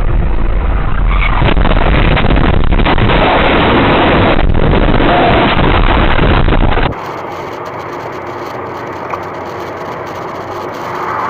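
Loud, rough, steady vehicle noise that stops abruptly about seven seconds in, followed by quieter steady road noise.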